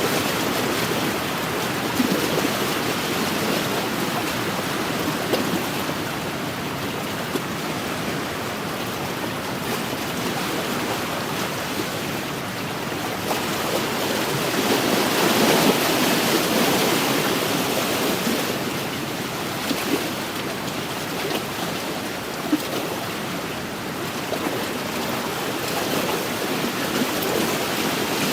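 Wind-driven waves lapping and splashing on a lakeshore, a steady wash with small splashes throughout and a louder swell about halfway through.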